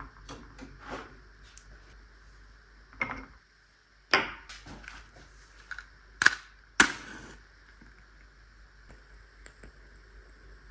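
Objects being handled and set down: a few sharp knocks and clicks with light ticks between, the two sharpest half a second apart just past the middle.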